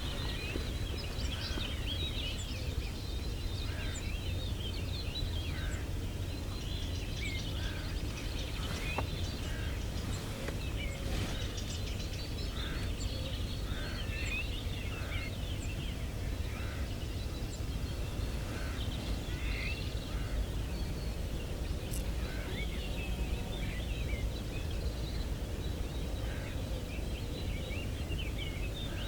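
A flock of jackdaws calling, many short calls scattered throughout, over a steady low rumble.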